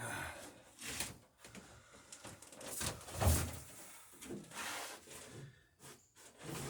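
Quiet, irregular handling sounds: soft knocks, scrapes and rustles, with one louder knock a little over three seconds in.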